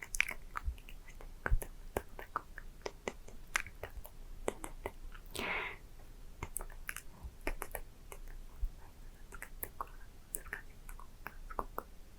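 Close-miked ASMR mouth sounds: a steady scatter of wet mouth clicks and lip smacks, with a brief breathy whisper about five seconds in.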